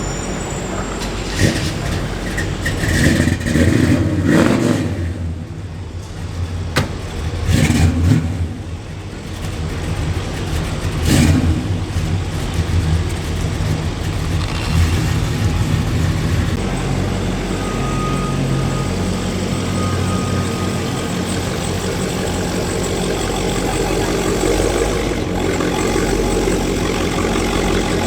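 Car engines revving several times in the first half, then running with a steady rumble, as show cars pull out.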